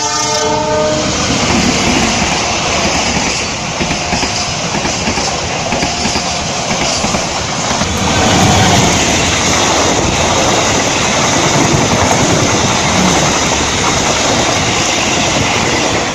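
A diesel locomotive's horn sounds and stops about a second in. After it, a passenger train passes close by: the locomotive and coaches make loud, steady running noise on the track.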